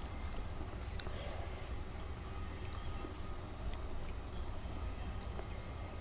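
A steady low rumble of background noise with a few faint, light clicks and smacks of eating, one clearer click about a second in.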